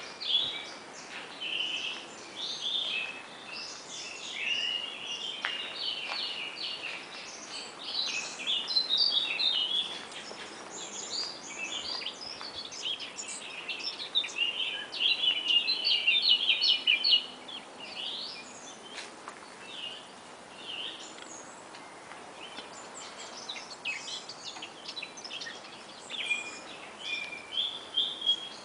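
Several songbirds singing at once, a busy overlapping chorus of short high chirps and trills that is densest and loudest a little past halfway through.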